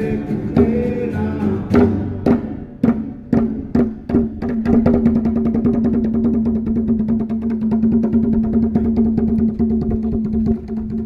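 Chanting with percussion for a traditional Mee dance: wavering voices and a few strong beats, then from about four seconds in a long held note over quick, steady beats.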